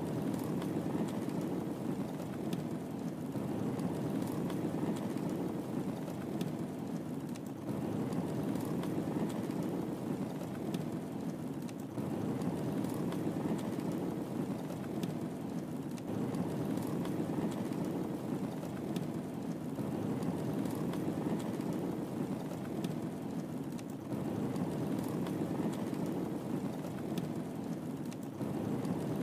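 Wood fire burning in a fireplace: a steady low rush of flames with scattered faint crackling pops.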